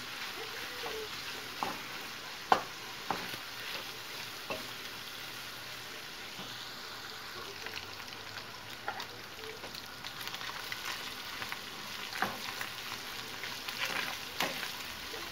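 Minced beef and chopped onion sizzling steadily in a frying pan. The meat's juices have cooked off and it is browning while the onion softens. A wooden spoon scrapes and knocks against the pan several times as it is stirred, the sharpest knock about two and a half seconds in.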